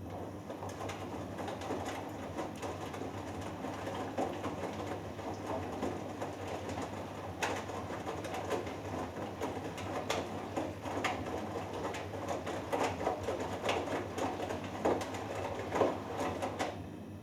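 Hoover Dynamic Next washing machine drum turning with its load tumbling, an uneven rumble with scattered knocks over a steady low hum. It starts abruptly and stops again near the end, one tumbling stroke of the wash.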